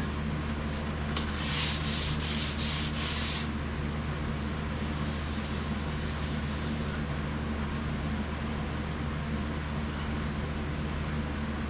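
Sandpaper being rubbed by hand over a car's painted body panel in back-and-forth strokes, hardest for a couple of seconds near the start and lighter after that, as the surface comes up smooth. A steady low hum runs underneath.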